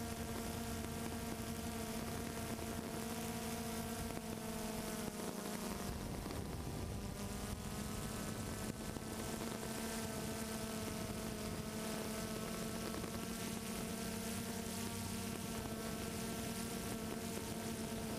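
Multirotor drone's motors and propellers buzzing steadily as heard from the drone's own camera, the pitch shifting briefly about five to eight seconds in.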